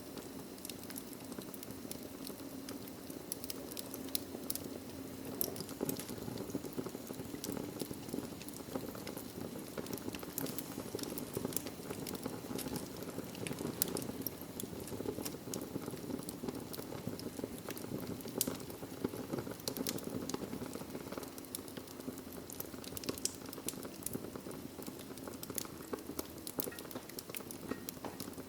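Wood fire burning in a fireplace: logs crackling with frequent sharp pops and snaps over a steady rushing of flame.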